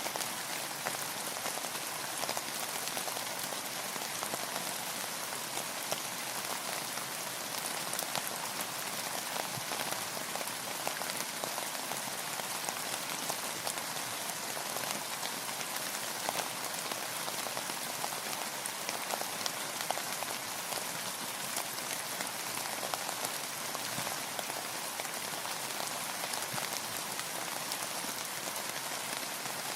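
Steady rain falling on a hard surface, a dense even hiss full of fine individual drop ticks.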